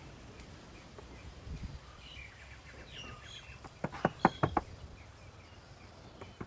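Birds chirping faintly in the background, then about four seconds in a quick run of about six sharp knocks, like hammer blows on wood.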